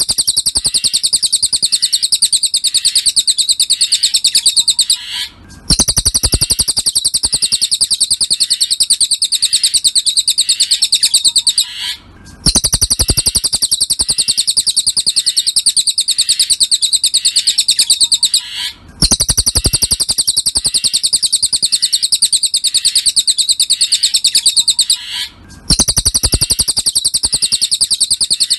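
Cililin bird song, as played for a song tutor: a very rapid, high-pitched trill of repeated chirps. It comes in phrases about six seconds long, with short breaks between them at regular intervals.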